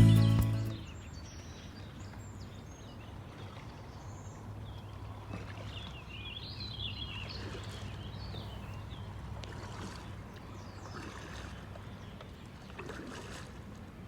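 A canoe out on a river: soft water sounds against the hull and paddle over a steady low hum, with a few faint high chirps in the middle. Music cuts off right at the start.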